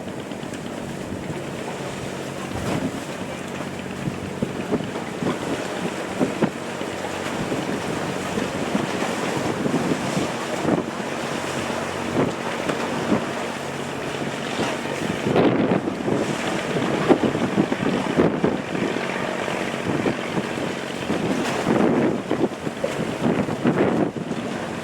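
Wind buffeting the microphone aboard a fishing boat under way, over a steady low engine hum and the wash of water against the hull, with stronger gusts or splashes now and then.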